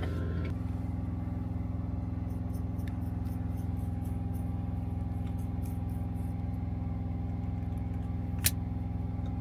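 Semi-truck engine idling, a steady low hum whose pitch shifts slightly just after the start, with a single sharp click near the end.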